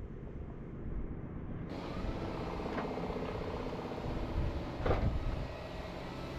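A motor running steadily, with a sharp knock about five seconds in.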